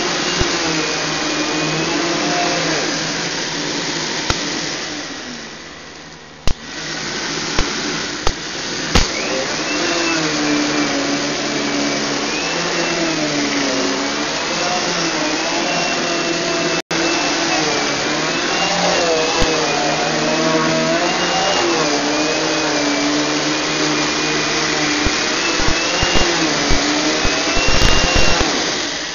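Central vacuum running with a crossover-style power nozzle, a steady rush of airflow whose pitch wavers up and down. The level dips briefly about five seconds in, there are a few clicks along the way, and it falls away near the end.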